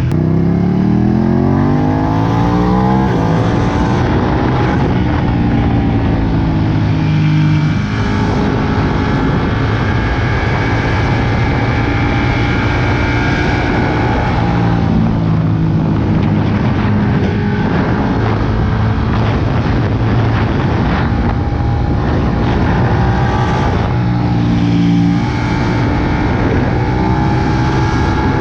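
Ducati Panigale 959's L-twin engine under riding load: the revs climb steeply in the first three seconds, then it runs at high revs, the pitch dropping and shifting several times with throttle and gear changes, with short dips near eight and twenty-five seconds in.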